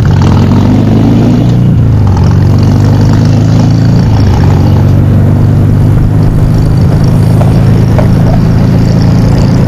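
Motorcycle engine pulling up through the revs, its pitch rising, then dropping sharply at a gear change a little under two seconds in and running steadily at road speed, with wind and road noise throughout.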